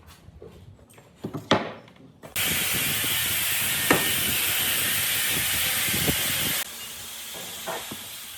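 A few light knocks of handling, then a sudden loud, steady hiss of air from a compressed-air tool about two seconds in. The hiss cuts off abruptly about two-thirds of the way through, and a fainter hiss goes on after it.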